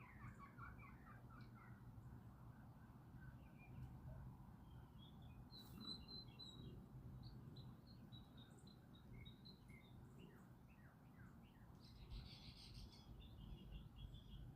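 Faint wild birdsong: small birds chirping and tweeting in short, scattered notes over a steady low background rumble.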